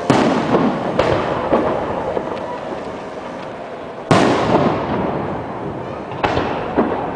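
Aerial fireworks bursting: three big bangs (one at the start, one about four seconds in, one about six seconds in), each trailing off in a long echoing rumble, with smaller cracks in between.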